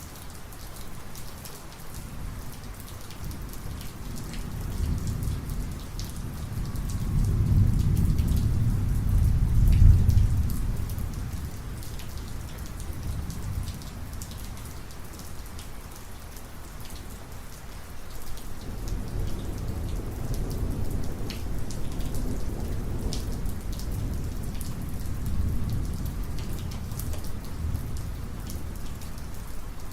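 Thunderstorm: steady heavy rain with individual drops ticking, under two long rolls of low thunder. The first builds to a peak about a third of the way in and then fades; the second rumbles on through most of the second half.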